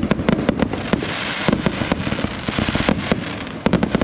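Aerial fireworks shells bursting in quick, irregular succession: many sharp bangs over a steady hiss.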